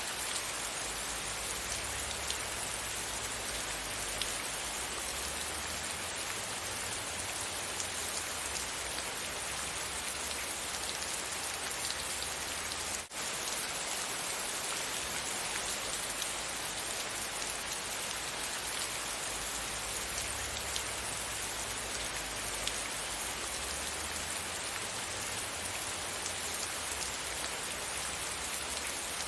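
Steady rain falling on a surface, a continuous hiss with scattered drop ticks. A brief dropout about halfway through.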